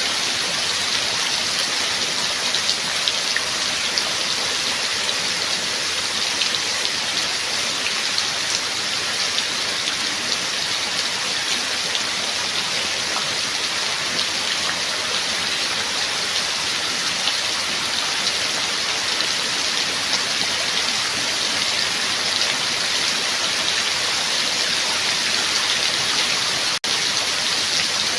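Steady rain falling: a dense, even hiss of drops with fine patter, cutting out for an instant near the end.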